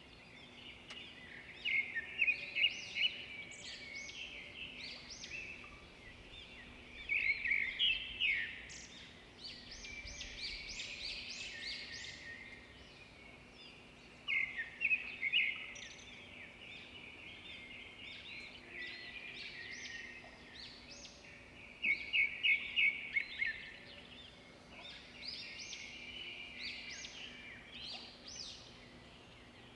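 Songbirds chirping, in bursts of quick high notes every few seconds, over a faint steady hum.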